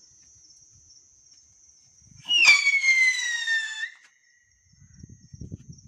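Whistling firework: a sharp pop about two seconds in, then a high whistle that slides slowly downward for about a second and a half.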